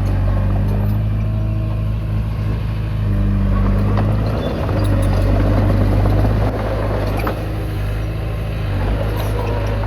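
Komatsu D20P crawler bulldozer's diesel engine running steadily under load, its pitch and level shifting a few times, with two brief sharp clanks.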